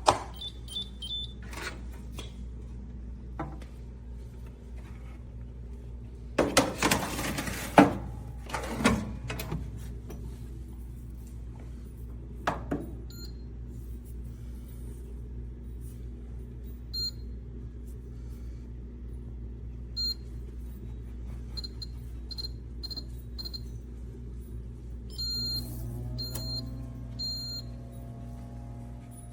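Knocks and clatter of handling, then a run of short, high electronic beeps from a countertop pizza and toaster oven's control panel as buttons are pressed, over a steady low hum.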